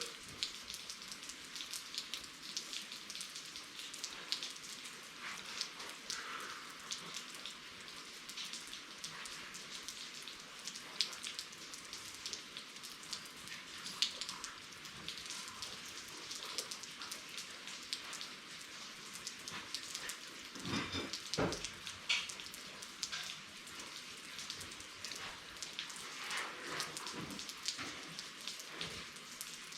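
Steady rain falling, heard from inside an open garage, with many scattered drop ticks over an even hiss. A few louder knocks come about two-thirds of the way through.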